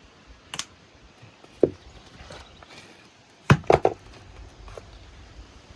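A few scattered knocks and thumps, with a quick cluster of three or four, the loudest, about three and a half seconds in.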